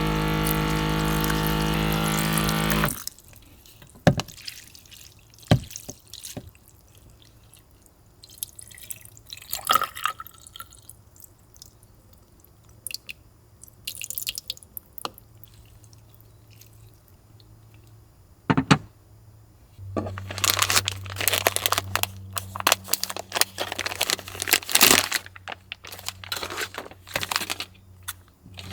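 Background music that cuts off about three seconds in, followed by scattered small clicks and knocks, then dense crinkling and rustling like handling packaging from about twenty seconds in.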